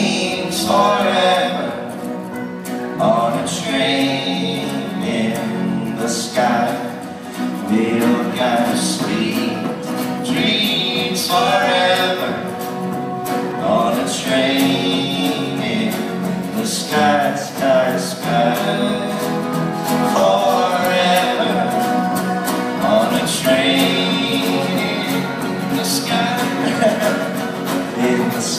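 Folk-bluegrass band playing live, with many voices singing together in drawn-out phrases over strummed acoustic guitars.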